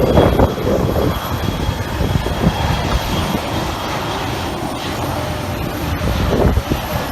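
Jet airliner taking off: a steady, loud engine rumble.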